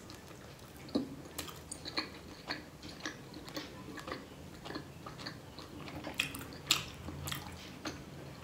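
A person chewing a steamed pork momo dumpling close to the microphone: irregular wet mouth clicks and smacks, a few sharper ones about a second in and again around six to seven seconds.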